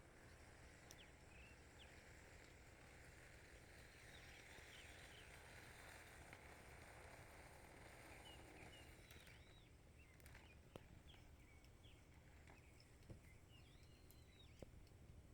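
Faint outdoor nature ambience with scattered short bird chirps over a soft hiss that fades out about two-thirds of the way through. Three faint clicks come near the end.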